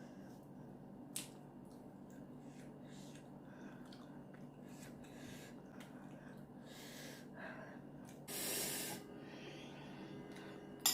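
A person sniffing and breathing hard while eating fiery Samyang spicy noodles, with a louder sharp breath about eight seconds in, over small clicks of eating and utensils.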